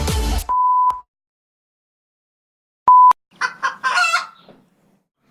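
Electronic dance music cuts off, followed by a steady beep tone; about three seconds in a short, very loud beep, then a run of hen clucks and squawks.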